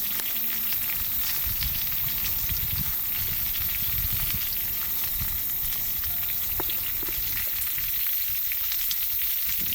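Food sizzling steadily in a pan over a wood campfire, with scattered small crackles.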